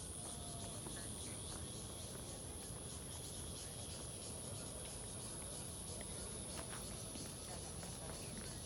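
Insects chirping in a steady, high-pitched continuous drone over a low background rumble.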